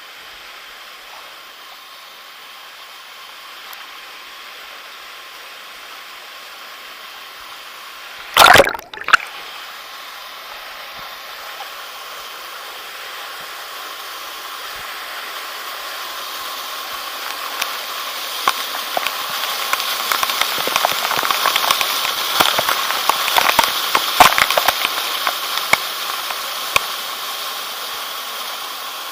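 Rushing water of a jungle stream or waterfall, a steady hiss that grows louder through the middle, with many small splashes. A loud knock about eight seconds in.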